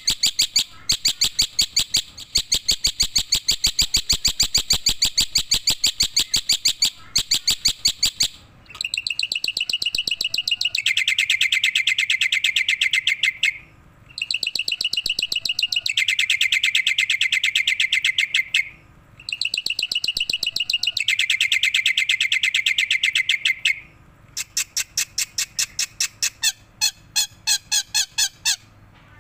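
Black-winged myna (jalak putih) singing: a long run of rapid, evenly spaced chirps, then three drawn-out high phrases with short pauses between them, then a quicker series of separate chirps near the end.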